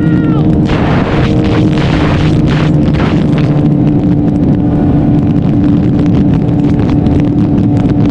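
A Suzuki Hayabusa's inline-four engine running at a steady speed while riding, with heavy wind buffeting on the microphone.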